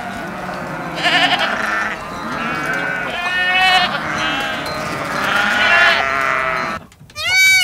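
Several goats bleating, calls overlapping one after another. Near the end, after a brief gap, a short high call rises and falls.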